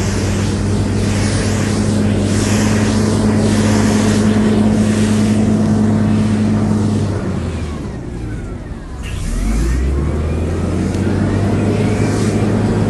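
Diesel engine of a heavy earthmoving machine running steadily at working speed. About seven seconds in it drops to a lower speed, then picks up again from about nine and a half seconds in.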